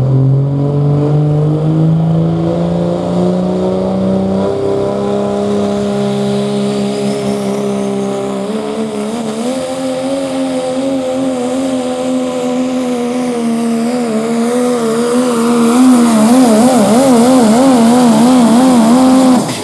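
Pro Stock diesel pickup truck engine at full load pulling a sled. Its pitch climbs over the first few seconds and then holds steady. In the last few seconds the pitch wobbles rapidly up and down, and the sound drops off suddenly near the end.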